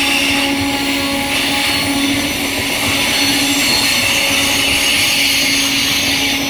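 Electric MEMU local train's coaches running past close by: a steady rumble of wheels on the rails, with a steady low tone underneath.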